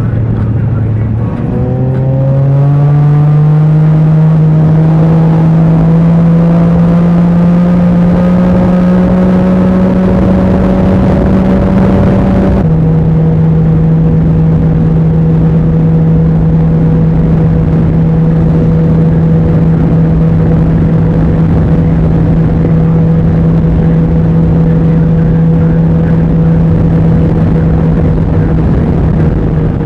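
Can-Am Ryker three-wheeler's engine running under way, rising steadily in pitch as it accelerates for about ten seconds. About twelve seconds in it abruptly drops to a steady, slightly lower pitch and holds there at cruise.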